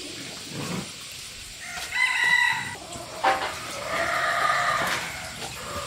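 Rooster crowing twice: a shorter call about two seconds in and a longer one near four seconds, with a sharp knock between them.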